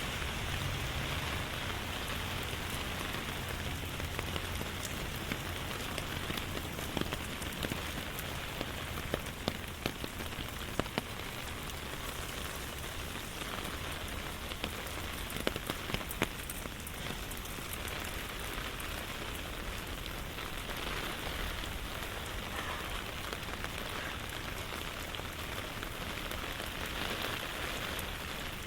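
Steady rain falling, with many scattered sharp ticks of individual drops striking close by, over a low rumble.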